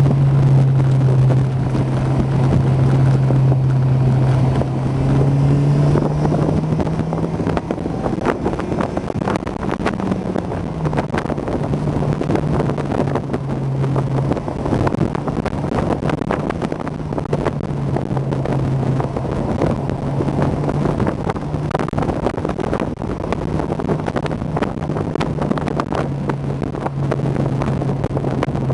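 Honda S2000's four-cylinder engine pulling at fairly steady revs on the move, with a brief rise in pitch about ten seconds in. Heavy wind noise from the open cockpit rushes over it.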